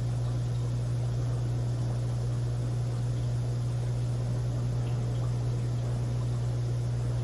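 Aquarium equipment running with a steady low hum over a faint even hiss.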